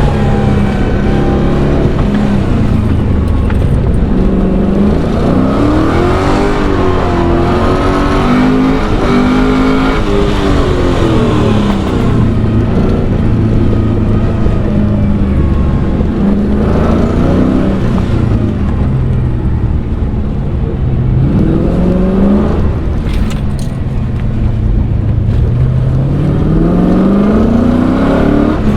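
LS V8 engine in a BMW E36 running hard, revving up and dropping back over and over, with pitch climbing in sweeps as it accelerates.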